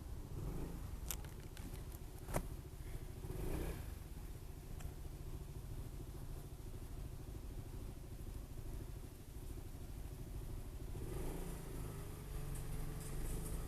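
Honda SH 300i scooter's single-cylinder engine running steadily under way, with road and wind rumble and a couple of sharp clicks in the first few seconds.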